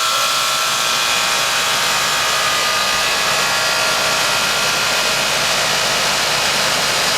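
A 2004 Carrier 3-ton heat pump's outdoor unit running as it comes out of defrost: a steady rush of air from the fan, with a faint steady motor tone under it.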